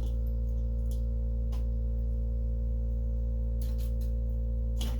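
A steady hum made of several held tones runs underneath, with a few brief light clicks as the headlight parts are handled, three of them spread across the few seconds.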